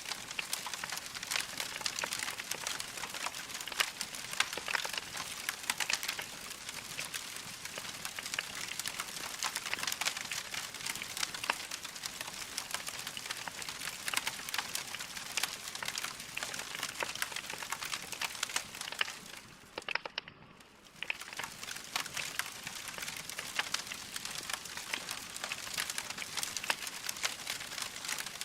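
Wood fire in a fireplace crackling: logs burning with dense, irregular pops and snaps over a steady hiss. The sound briefly fades almost out about two-thirds of the way through, then resumes as before.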